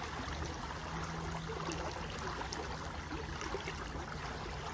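Creek water flowing and trickling: a steady, even rush speckled with small splashes and gurgles.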